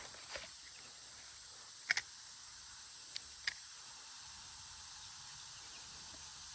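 Steady high-pitched insect chorus, with a few short sharp clicks in the first four seconds.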